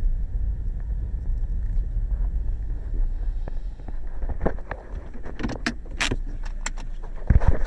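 Car engine running with a steady low rumble, its bearings and belt freshly replaced. About halfway in, a quick series of sharp clicks and metallic clinks joins it.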